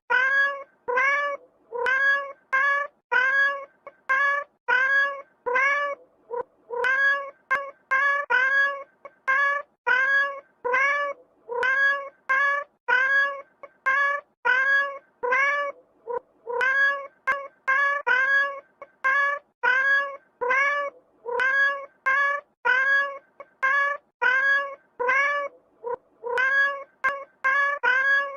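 Cat meowing over and over: the same short meow repeated about twice a second, with brief pauses about six and sixteen seconds in.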